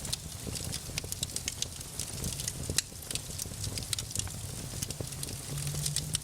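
Wood fire crackling, with a dense run of small pops and snaps over a steady low rumble of flame. One sharper pop comes about three seconds in.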